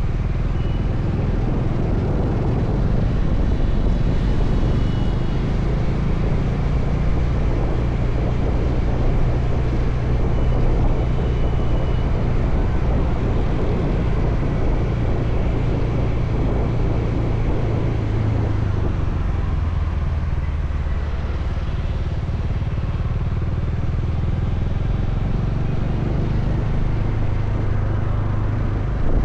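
Motorcycle engine running under way with road and wind noise, a steady low drone whose pitch drops and rises again about two-thirds of the way through as the rider changes speed.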